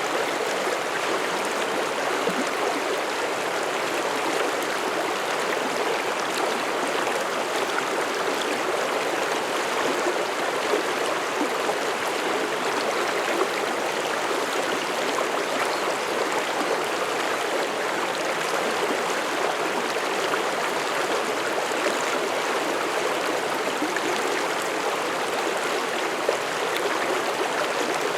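Mountain stream flowing over rocks: a steady, even rush and babble of water.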